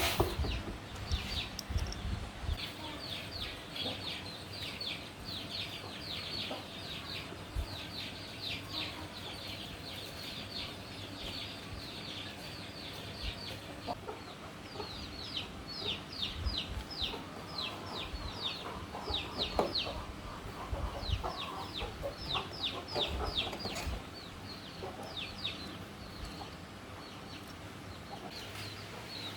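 Birds chirping in long runs of short, high, falling notes, several a second, with a few faint low knocks.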